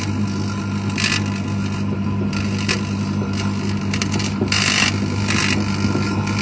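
Microwave oven running with a steady hum, broken by a few short bursts of crackling about a second in and again near the five-second mark, the sound of iron or steel metal sparking inside.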